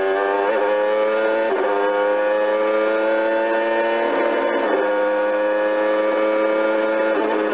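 Electronic truck-engine sound effect from a Jolly Roger American Big Truck coin-operated kiddie ride, played through the ride's small speaker: a buzzy held tone that slowly climbs in pitch, with a short break about halfway through.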